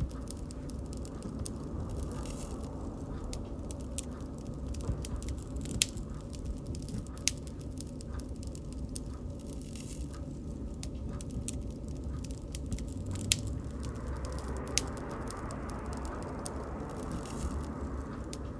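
Wood bonfire crackling: a steady low rush of burning with irregular sharp snaps and a few louder pops, and a faint hiss rising about two-thirds of the way through.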